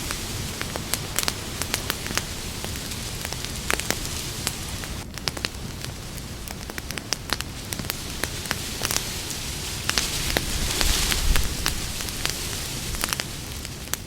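Campfire burning: a steady hiss scattered with frequent sharp crackles and pops of burning wood, the hiss swelling louder about eleven seconds in.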